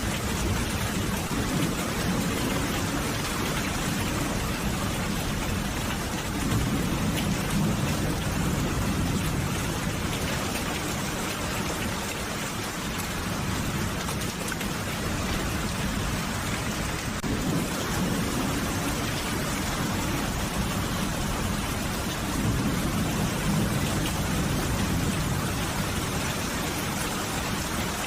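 Steady heavy rain falling, an even hiss with dense patter. Low rumbles of distant thunder swell up twice, about a quarter of the way in and again past three-quarters.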